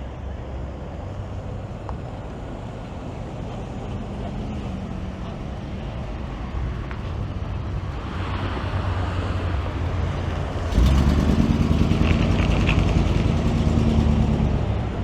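Car engine running and slowly growing louder. About eleven seconds in it gets suddenly louder for a few seconds, as a car drives close by, then eases off near the end.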